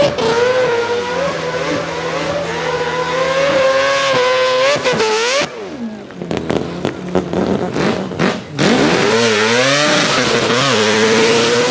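Mazda drift car's engine revving and held at high revs. About halfway through the revs drop off, with a couple of seconds of lower, broken running and a few short pops. The engine then revs sharply back up and holds high again.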